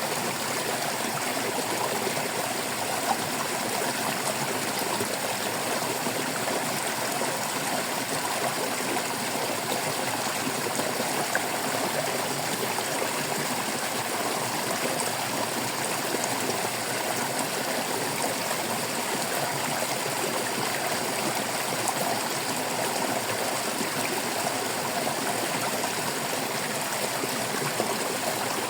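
Small stream babbling and trickling over stones, a steady even rush of water with no change.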